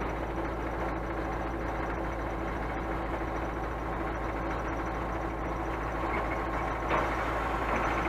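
Scania truck's diesel engine running steadily, with a single short knock about seven seconds in.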